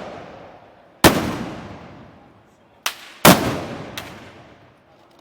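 Black-powder blunderbuss (arcabuz) shots. Four sharp bangs, each trailing off in a long echo: a loud one about a second in, a lighter one, the loudest just after, then a lighter one.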